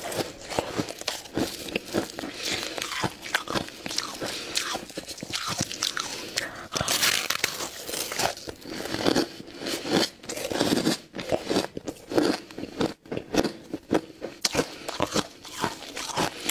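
Close-up biting and chewing of hard, crunchy ice: a dense run of irregular, sharp crunches.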